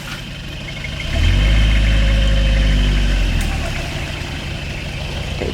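Off-road 4x4's engine running, revved up about a second in and held for about two seconds before dropping back to idle.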